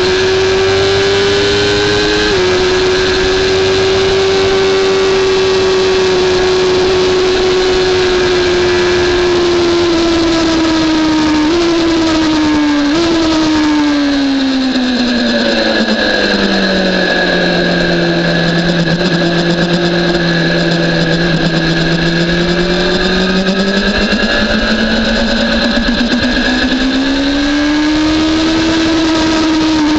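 BMW S1000RR inline-four sport-bike engine under way: it holds high revs through two upshifts early on, two quick downshifts follow, then the revs sink to a low steady note for several seconds before climbing again near the end.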